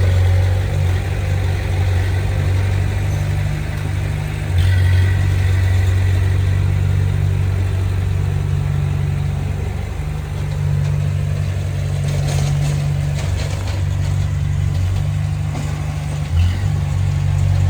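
Diesel engine of heavy earthmoving equipment running with a steady low drone, its load and loudness rising about four and a half seconds in and easing off briefly around ten seconds. A few short clanks come in the later part.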